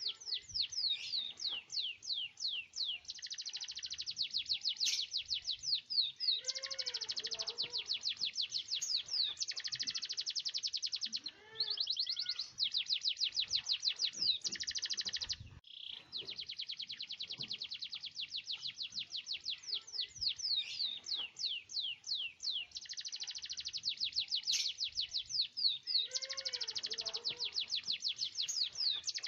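Domestic canary singing a long, almost unbroken song of fast rolling trills and high chirps, its 'gacor' full-volume song with long rolls, broken only by a short pause about halfway through.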